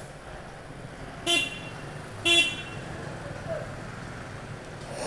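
Two short vehicle-horn beeps about a second apart, over the steady drone of an engine running.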